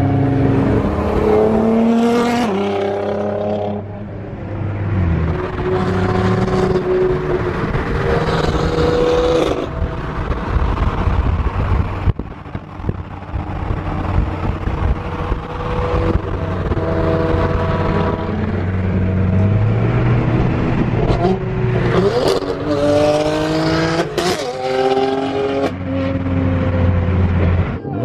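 High-performance car engine accelerating hard, its note climbing and then dropping back at each gear change, with several sharp cracks along the way.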